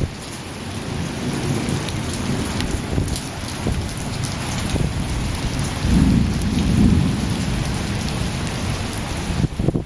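Thunderstorm: steady rain falling with thunder rumbling, the rumble swelling loudest about six to seven seconds in.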